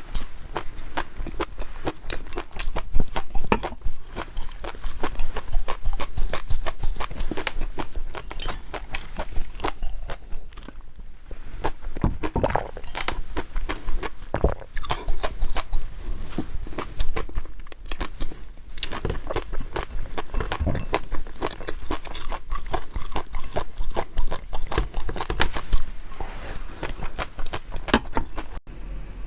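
Close-miked chewing and crunching of food in the mouth: dense, irregular crackly bites and wet mouth clicks, briefly thinning out about a third of the way in.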